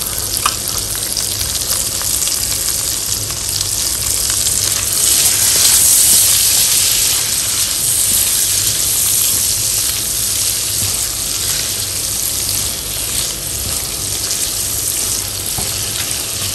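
Half-boiled potato cubes sizzling as they fry in bubbling butter in a frying pan, turned now and then with a silicone spatula. The sizzle swells a little about five seconds in.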